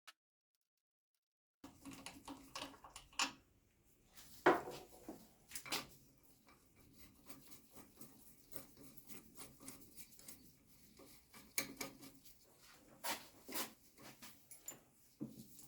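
Hand tools and bicycle parts being handled during disassembly: scattered clicks, knocks and light metallic clinks, starting after a second and a half of silence, the loudest knocks about four and a half seconds in and again around thirteen seconds.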